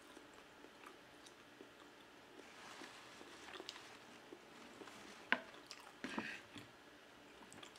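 Soft chewing and wet mouth sounds of a person eating a mouthful of pizza, with scattered small clicks and one sharper click about five seconds in.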